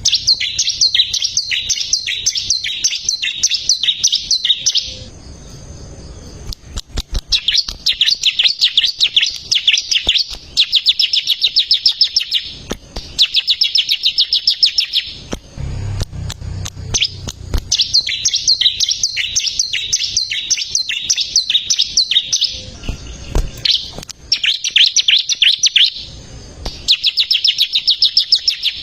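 Bar-winged prinia (ciblek) singing in full voice: phrases of rapid, high, chattering notes a few seconds long, repeated with short pauses between them. A low hum lies underneath some phrases.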